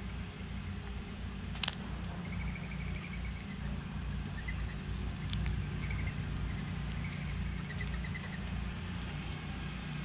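Small birds chirping in several short, faint trills of rapid notes over a steady low rumble, with a sharp click a little under two seconds in.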